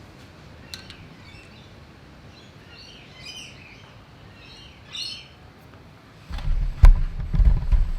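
A bird chirping in two short bursts in the background, then a run of low thumps and a sharp knock near the end.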